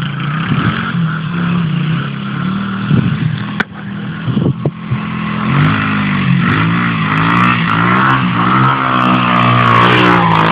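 Dirt bike engine running, its pitch rising and falling again and again through the second half as the throttle is worked, getting louder toward the end; a sharp click about three and a half seconds in.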